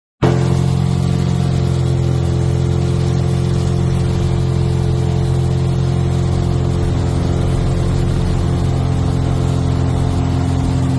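Cessna 177RG Cardinal's four-cylinder Lycoming piston engine and propeller running at a steady, unchanging speed: a constant drone with a strong low hum.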